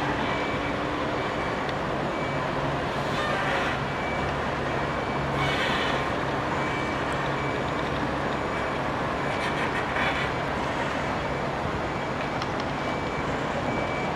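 Steady heavy-vehicle and traffic noise with a low engine hum. A short high beep repeats about once a second, and a few brief bursts of hiss rise over it.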